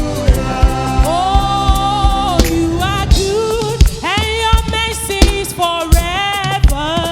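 Gospel worship music: singing voices holding long notes that slide up into pitch, over a band with a steady drum beat.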